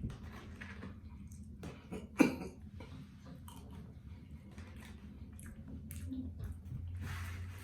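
Close-miked chewing and mouth sounds of someone eating fast food: irregular wet smacks and small crunches, with one louder sharp crunch or snap about two seconds in.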